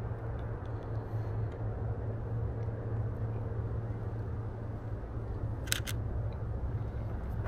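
Canon EOS RP camera shutter firing once, a quick double click about six seconds in, over a steady low hum.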